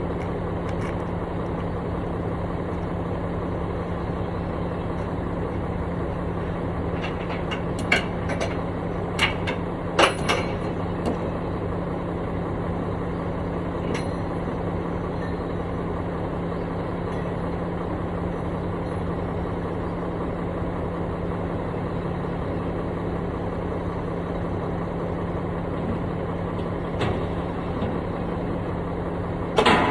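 Engine of a heavy construction machine running steadily at a constant low speed. A few short, sharp knocks or clanks come through about eight to ten seconds in, and again near the end.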